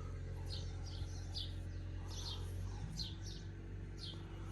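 Small birds chirping, short falling chirps repeating every half second to a second, over a steady low hum.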